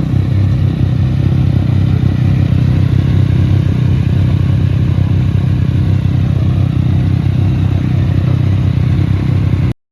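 Motorcycle engine running at a steady pitch, without revving up or down. The sound stops abruptly near the end.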